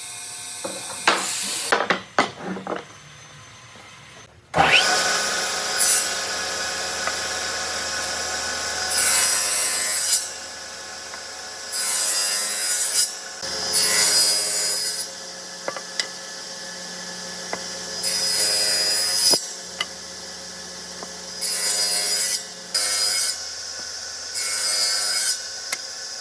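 An electric woodworking power tool starts up after a few knocks, about four and a half seconds in, and runs steadily. It gives repeated bursts of cutting or sanding noise, each a second or two long, as it works the wood.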